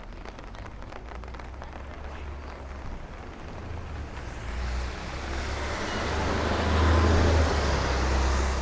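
Traffic on a rain-wet city street: tyre hiss on wet pavement building up from about halfway through and staying loud, over a steady low rumble.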